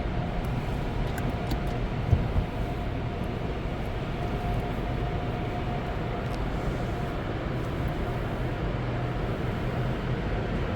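Automatic tunnel car wash equipment running, heard from inside the car on the conveyor: a steady low rumble with a faint whine that comes and goes, and a single knock about two seconds in.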